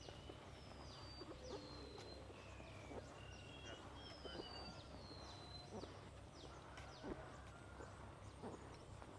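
Faint birdsong: many short whistled notes, some held level and some gliding down in pitch, from more than one bird, over a low steady rumble.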